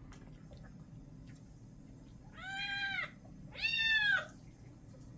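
Young kitten meowing twice while being given a bath, each meow a drawn-out cry that starts and ends lower in pitch.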